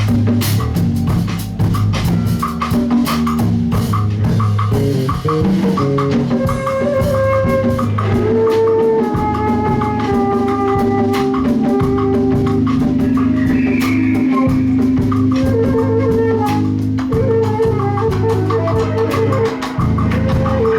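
A live band playing an instrumental passage: drum kit keeping a steady beat under bass and guitar, with a held melodic line over them.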